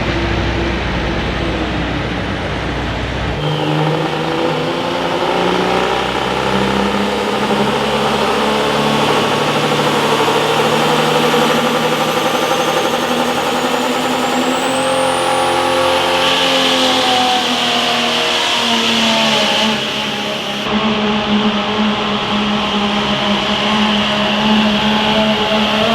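Engine of a competition pulling vehicle running hard under load, its pitch slowly shifting, with a high whine that climbs partway through. The sound changes abruptly twice, about three seconds in and again near the end.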